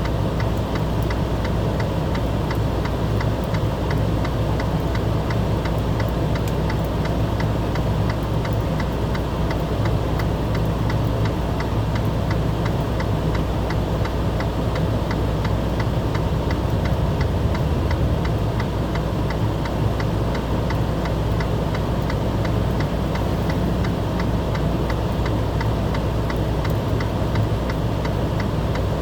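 Engine idling steadily with a low hum and a fast, even ticking.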